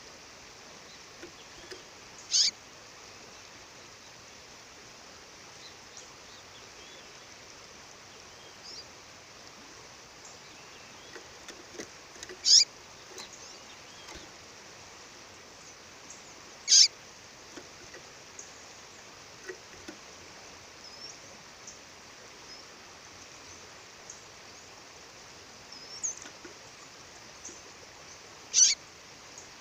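A female bird calling: four loud, very short high calls spaced several seconds apart, with fainter chirps between. Under them runs the steady rush of a waterfall.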